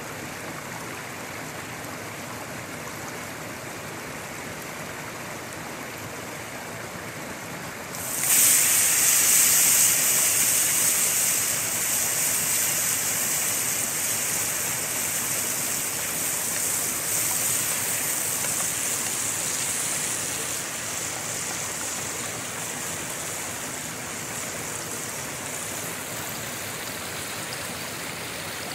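Chopped porcini mushrooms hitting hot oil in a cast-iron pan: a steady hiss, then a sudden loud sizzle about eight seconds in that slowly eases off as they fry.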